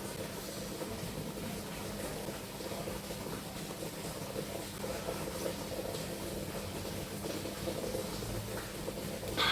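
Steady room noise with a constant low hum, and one short sharp click near the end.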